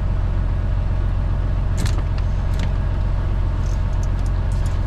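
Semi truck's diesel engine idling with a steady low rumble, with a few brief sharp scrapes and clicks of parts being handled about two seconds in and near the end.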